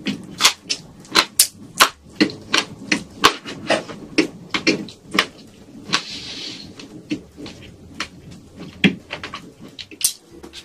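Close-miked chewing: wet mouth clicks and smacks, about two to three a second, as a mouthful of shrimp and rice is chewed.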